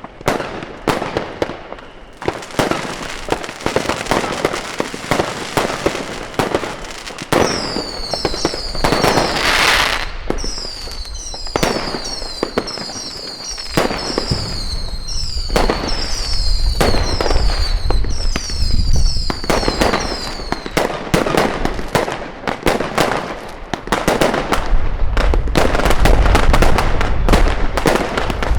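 Fireworks going off: dense crackling and bangs throughout. From about 8 s to 20 s a run of repeated high whistles falls in pitch, and heavier deep booms come in from about 16 s.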